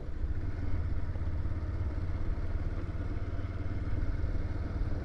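Motorcycle running steadily while riding, a continuous low engine drone with road noise.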